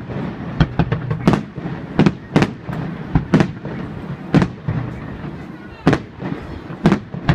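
Aerial firework shells bursting in an irregular run of sharp bangs, a dozen or so in a few seconds, some close together and some with gaps of about a second.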